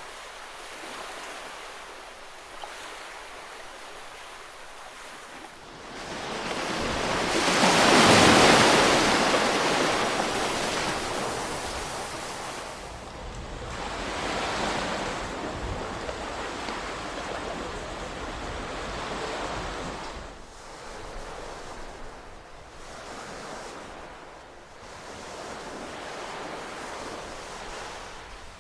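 Ocean waves washing ashore in a steady hiss of surf. One larger wave builds and breaks about a quarter of the way in, then slowly drains away, and smaller swells follow.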